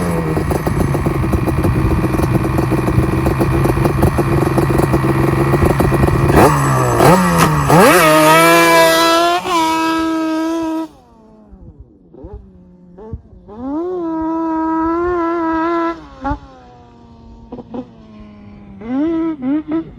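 Yamaha Banshee's twin-cylinder two-stroke engine, fitted with a MOTOFAST 2-into-1 exhaust, running under steady throttle. About seven seconds in it revs up sharply and holds high revs. Just before halfway it drops much quieter, then rises in a couple more revs and short blips.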